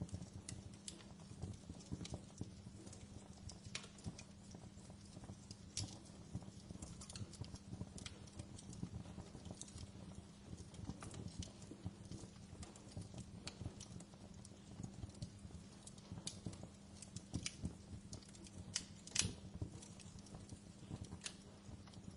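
Wood fire crackling in a fireplace: irregular small pops and snaps over a low steady rumble of the flames, with one louder pop about 19 seconds in.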